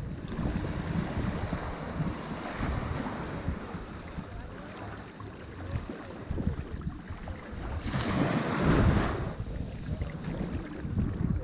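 Ocean surf washing on a shore, a steady rush of water with a bigger wave breaking about eight seconds in.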